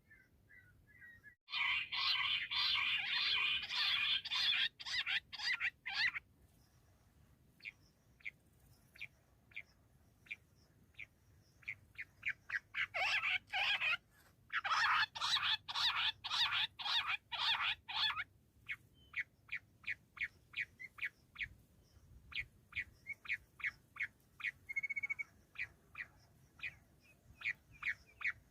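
Bush quail calling: two long bursts of rapid, dense chattering calls, then a run of short separate calls at about two a second.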